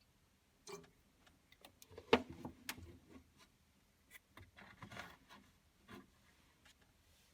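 Scattered light clicks, taps and knocks of small objects being handled and set down, the sharpest knock about two seconds in.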